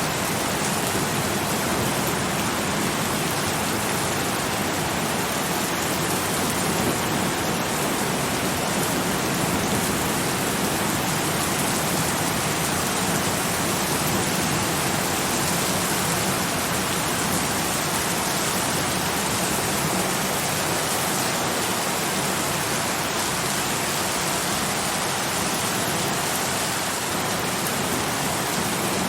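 Steady, heavy rain falling, an even dense hiss with no distinct drops or thunder standing out.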